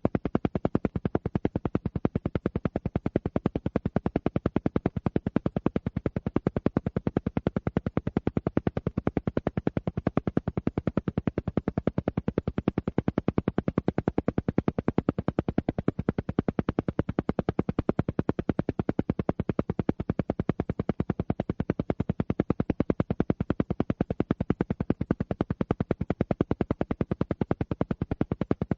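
Alpha-wave brainwave-entrainment audio: a steady, evenly spaced train of short pulses, around ten a second, repeating without change.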